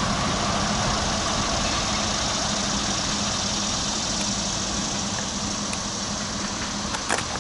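Diesel locomotive engine running with a steady hum, slowly fading.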